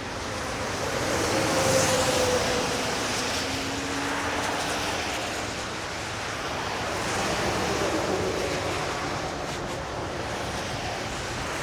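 Wind rushing over the microphone and the rush of traffic on the bridge while riding an electric scooter, swelling about two seconds in and again near eight seconds, with a faint passing hum that slides in pitch.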